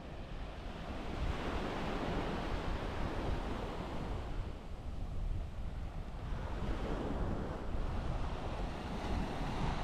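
Surf breaking and washing up on a beach, swelling and easing in two or three waves, over a steady low rumble of wind on the microphone.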